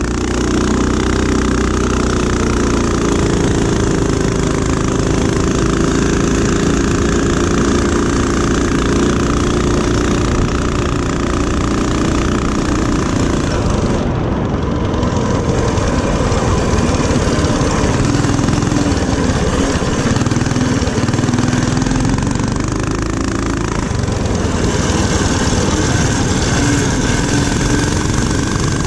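Small single-cylinder mini-bike engine running under throttle through a lap, its pitch rising and falling as the rider speeds up and slows.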